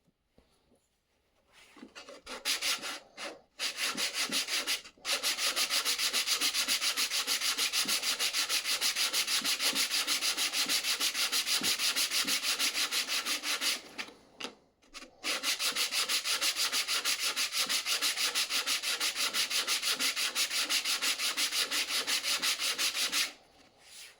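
Hand sanding: sandpaper rubbed rapidly back and forth in quick, even strokes, several a second. Two long runs with a short break in the middle.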